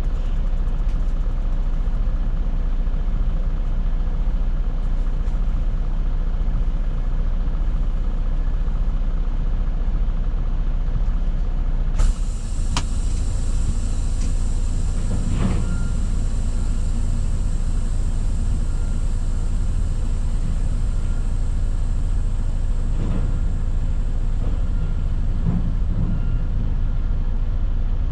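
Semi truck's diesel engine running steadily at a low rumble, with a sharp click about twelve seconds in and a few faint knocks later.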